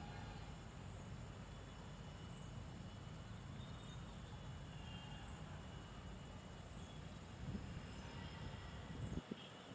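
Faint outdoor ambience: a short high chirp repeats evenly about once a second over a low steady rumble, with a couple of brief low bumps near the end.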